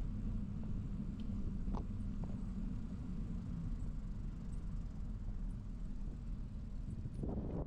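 Steady low rumble of city traffic and road noise picked up by a bicycle-mounted camera while riding, with a couple of faint clicks about two seconds in and a crackling rattle starting near the end.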